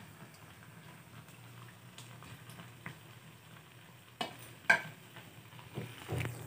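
Faint frying of malpua batter in hot oil, with two sharp metal clinks of kitchen utensils a little after four seconds in and a few softer knocks near the end.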